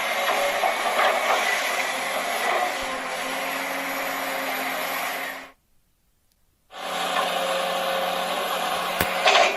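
A small motor whirring steadily with a constant hum. It cuts out completely for about a second midway, then runs again, with a couple of sharp clicks near the end.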